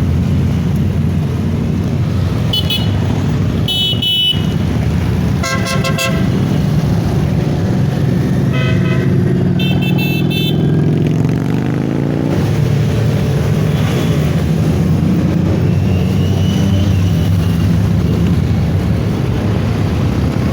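Motorcycle engines running steadily, with a series of short horn toots of different pitches through the first half. One engine note rises about halfway through as it revs up.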